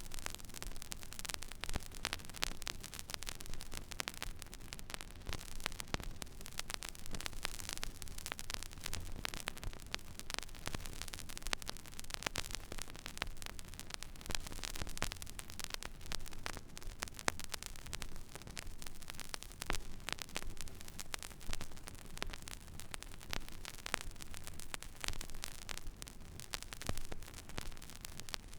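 Record-player stylus tracking an empty vinyl record groove: continual crackle and pops over steady surface hiss, with a low hum underneath.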